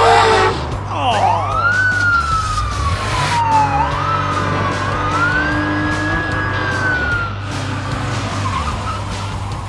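Cartoon sound effects: tyres squeal as a sports car speeds off, then a police siren wails, its pitch rising and falling slowly for several seconds. Background music with a bass line runs underneath.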